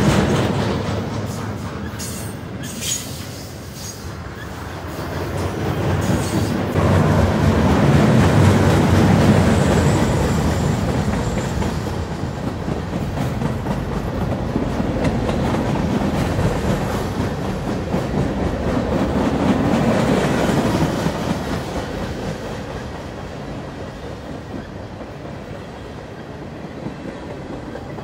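Freight train cars rolling past close by: a continuous rumble of steel wheels on rail, swelling and easing as the cars go by, with a few sharp clicks about two to three seconds in.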